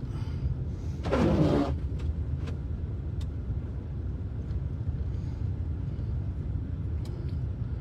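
Steady low rumble of a car's engine and tyres heard from inside the cabin, driving slowly on a snow-covered road. About a second in, a windshield wiper sweeps once with a short scrape.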